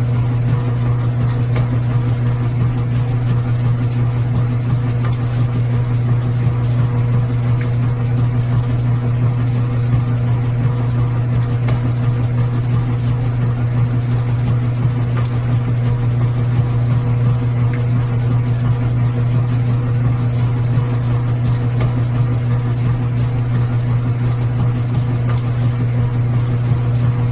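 Washing machine running with a steady, even low hum and a few fainter steady tones above it, unchanging throughout, with faint light ticks here and there.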